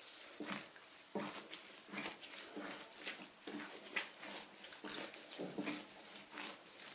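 Soft, buttery bread dough being kneaded by hand, squishing and slapping in repeated strokes about one or two a second.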